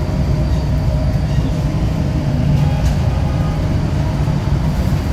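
Steady, loud low rumble of a running engine or machine, with a faint constant hum over it.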